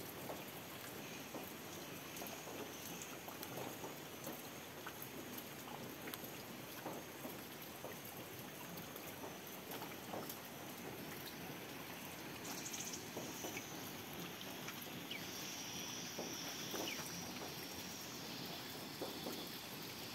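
Steady rain falling on wet leaves and floodwater: an even hiss with scattered faint drop ticks.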